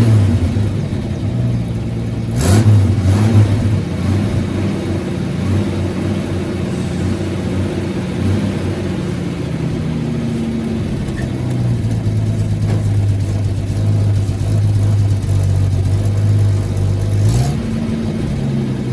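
Old Ford F-Series truck engine running at a steady idle, with louder revs about two and a half seconds in and again near the end.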